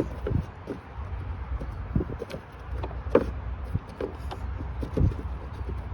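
Plastic knocks, clicks and light scraping as a new air filter is fitted into the engine air-filter housing, with the sharpest knock about three seconds in, over a low steady rumble.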